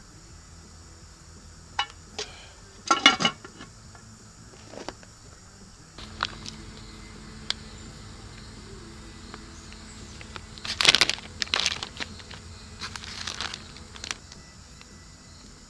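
Scattered clicks, knocks and a short rattle from handling food and utensils while assembling a tortilla, loudest about three seconds in and again near eleven seconds, over a faint steady buzz.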